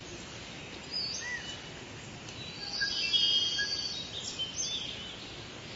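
Several birds singing and calling over a steady background hiss: short whistled notes that rise and fall, with a quick trill about three seconds in.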